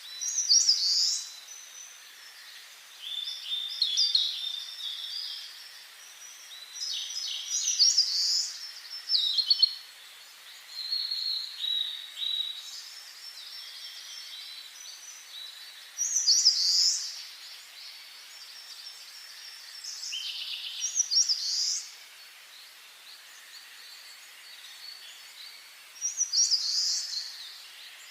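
Songbirds singing: short, bright chirping phrases repeated every few seconds over a faint steady hiss.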